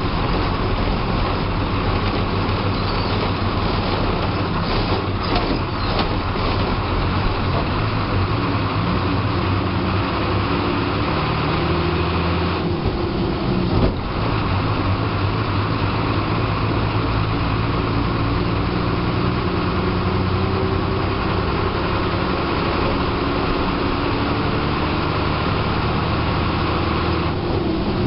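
TSRTC bus's diesel engine running under way, heard from the driver's cabin, with steady road and body noise. The engine note changes about halfway through and again near the end, and there is a single knock just after halfway.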